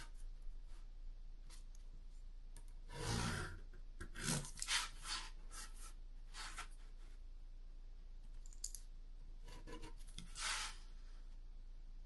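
Short scratchy strokes of a pen or pencil drawing lines on cardboard, in a few clusters, with a dull bump of the sheet or a ruler being handled about three seconds in.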